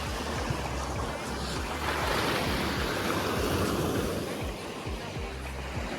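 Waves washing onto a beach, the surf swelling loudest about two to four seconds in, with wind rumbling on the microphone.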